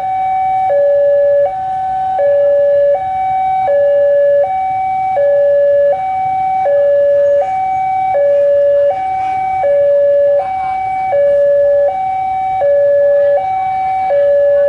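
Two-tone hi-lo warning siren, alternating steadily between a higher and a lower note about every three-quarters of a second.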